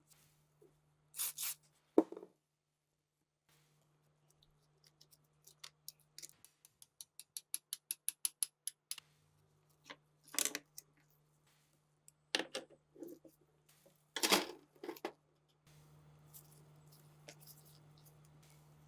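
Hand work on small metal parts: scattered scrapes and clicks, with a run of quick light ticks, about four a second, in the middle.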